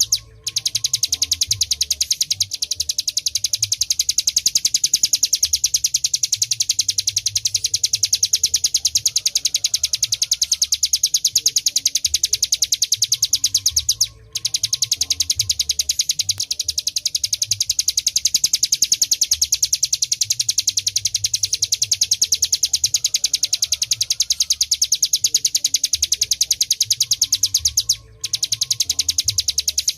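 Hill prinia (ciblek gunung) singing its fast, drill-like 'ngebren' song: a high, very rapid trill that runs on without stopping. It breaks off for a moment about halfway through and again near the end.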